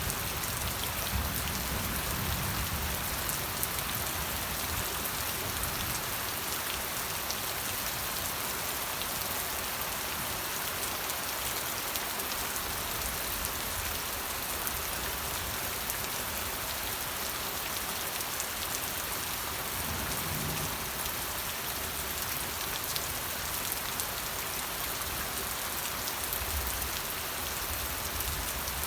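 Steady rain falling: an even hiss of dense patter, with faint low rumbles now and then.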